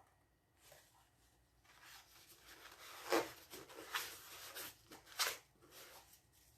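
Rustling and scraping of things being handled, in short strokes, with three louder scrapes about three, four and five seconds in.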